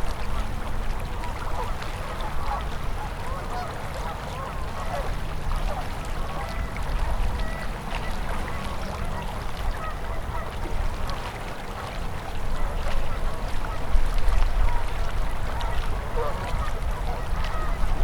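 Winter river flowing, with a constant low rumble and a dense patter of short gurgling or chirping sounds; the rumble grows louder about two-thirds of the way through.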